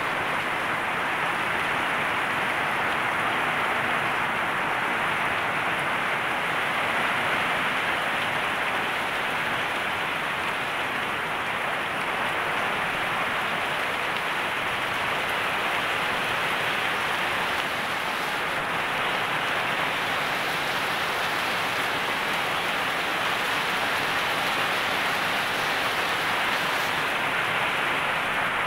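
Heavy rain pouring steadily onto leafy plants and surfaces in a small aviary, an even, unbroken hiss.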